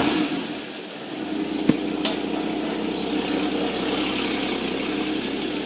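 Porsche car engine just started and settling, about a second in, into a steady idle.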